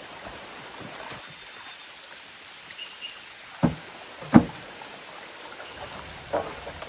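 A few sharp knocks, two about a second apart around the middle and a smaller one near the end, over a steady background hiss.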